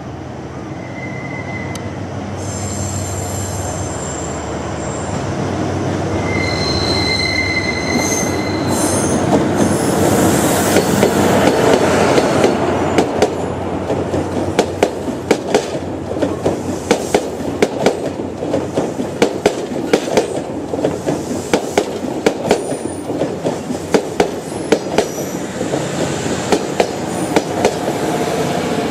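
Passenger train pulling into a station: a rumble builds up, with brief high wheel squeals early on. From about halfway, rapid uneven clacks of the wheels over rail joints and points run on as the cars roll past.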